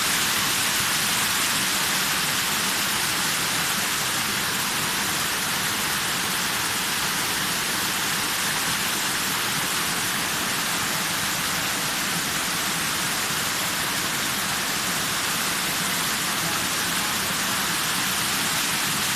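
Waterfall: falling water making a loud, steady hiss.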